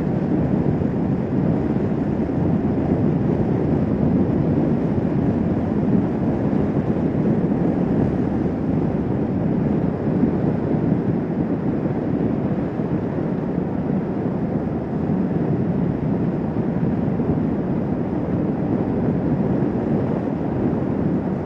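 Steady wind rush over the microphone, with the engine and road noise of a Kawasaki Vulcan S 650 motorcycle underneath, riding at a constant cruising speed.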